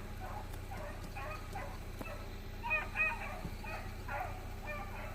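Beagles baying on a rabbit track: a run of short, repeated hound calls, with two louder ones a little before the middle.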